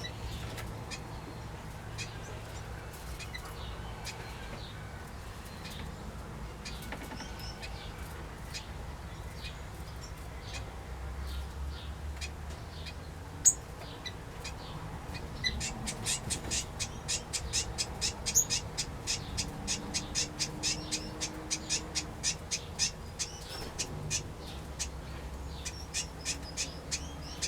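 Small aviary birds (finches, waxbills and parrots) chirping. Scattered high calls come first; about halfway through they give way to a rapid run of high chirps, several a second, for several seconds before thinning out. A steady low rumble lies underneath.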